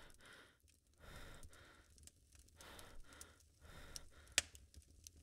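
Slow, breathy exhalations, one about every second and a half, over a faint low hum, with a sharp click about four seconds in.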